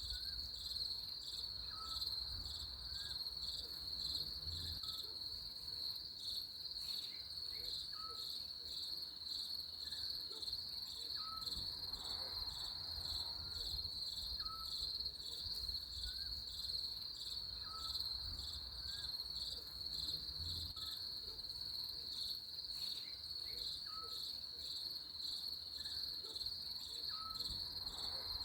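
Crickets chirping steadily in a continuous high trill, with a faint short note repeating about once a second underneath.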